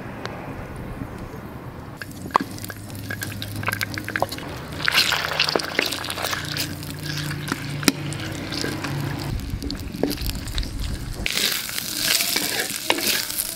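Chicken pieces frying in hot oil in a clay pot, sizzling and stirred with a wooden spatula that scrapes and knocks against the pot; the sizzle grows loudest near the end. Before that, a short stretch of cooking oil being poured into the pot.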